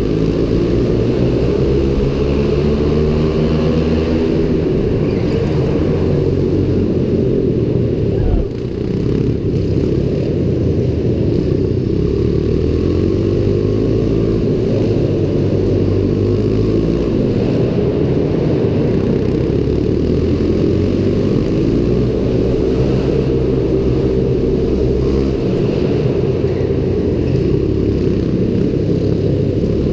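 Pit bike's small single-cylinder engine revving hard through a lap, its pitch climbing and falling again and again with throttle and gear changes. About eight and a half seconds in the throttle is briefly shut off before it pulls again.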